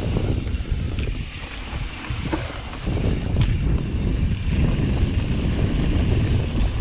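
Wind buffeting the microphone of a camera on a mountain bike riding a dirt trail: a steady low rumble that eases briefly about two seconds in. A few sharp clicks of bike rattle or tyre over rocks stand out from it.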